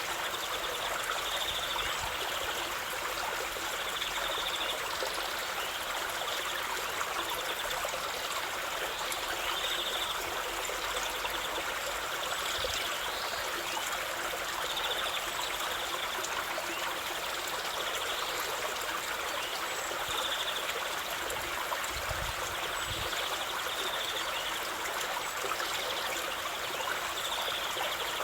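Stream water running and trickling steadily, with short high trills recurring every two to three seconds.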